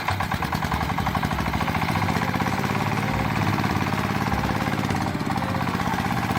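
A small engine running steadily at an even speed, with a rapid, regular chugging pulse.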